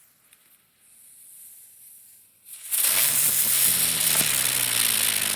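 A ground bloom flower firework ignites about two and a half seconds in and spins on the ground with a loud, steady hiss.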